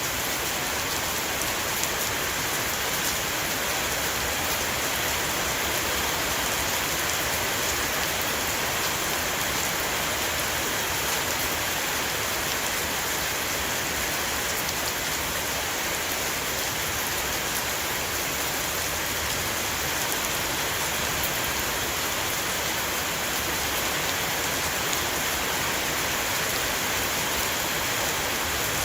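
Heavy rain shower drumming steadily on a roof, a dense even hiss of drops with fine ticks of single drops.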